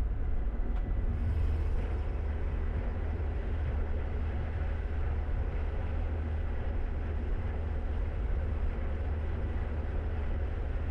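Steady low drone of a Flight Design light aircraft's piston engine and propeller running at taxi power.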